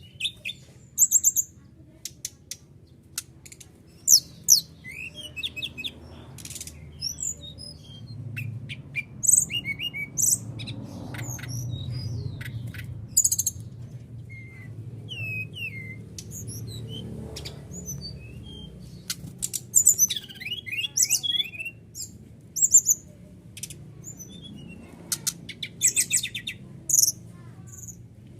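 Brown-chested jungle flycatcher (SRDC) song, the kind played to get a caged bird to answer: repeated high, sharp chirps and quick trills, over a low background rumble.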